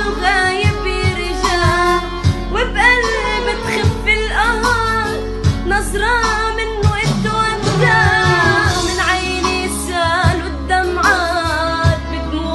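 A female voice singing an Arabic song in a sliding, ornamented line over an instrumental backing track with a steady low beat.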